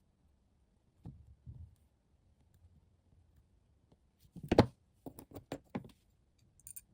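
A couple of soft knocks, then a sharp click about halfway through followed by a quick run of about five lighter clicks: small hard parts being handled and set down on a work surface.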